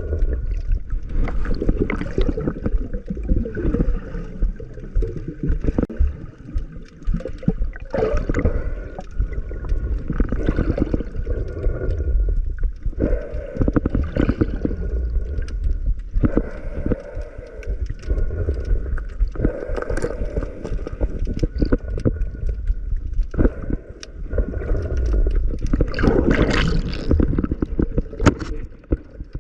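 Underwater camera audio: muffled water rumble with irregular gurgling and bubbling surges as the diver moves.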